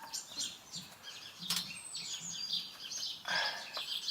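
Small birds chirping and twittering continuously. A sharp click comes about one and a half seconds in, and a short, louder scratchy noise comes near the end.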